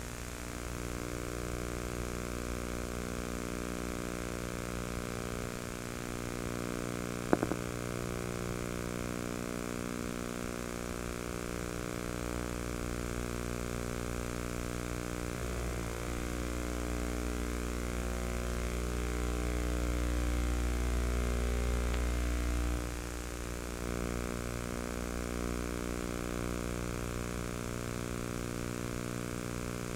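Steady droning hum with low wind rumble on the microphone during a hurricane. The rumble swells from about 16 to 23 seconds in, and there is one sharp click about 7 seconds in.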